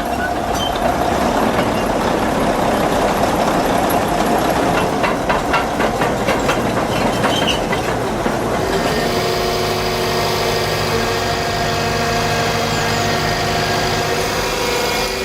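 Heavy earthmoving machine running under work, its diesel engine loud and steady, with a rapid run of metal clanks in the middle. About nine seconds in, the sound shifts to a steadier engine drone.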